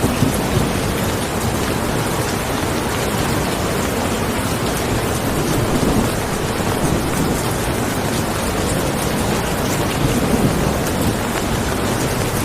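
Steady heavy rain, a dense even wash with a deep low rumble underneath that swells slightly about six and ten seconds in.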